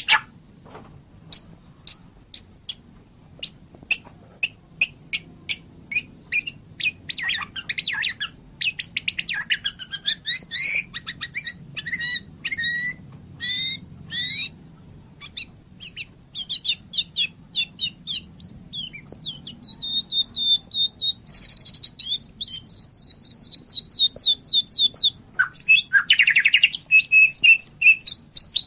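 White-rumped shama (murai batu) singing: a string of sharp, evenly spaced chip notes, then varied whistled phrases that slide up and down, and fast repeated trills near the end.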